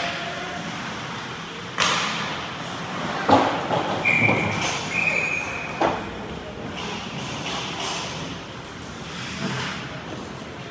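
Ice hockey play echoing in a rink: sharp knocks of puck and sticks against the boards, the loudest about two, three and a half and six seconds in, over steady rink noise, with a short high tone heard twice in the middle.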